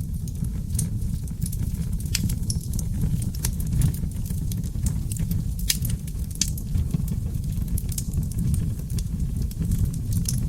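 Log fire burning in a fireplace: a steady low rumble of flame with sharp crackles and pops from the wood, several a second. A few louder pops come about four, six and six and a half seconds in.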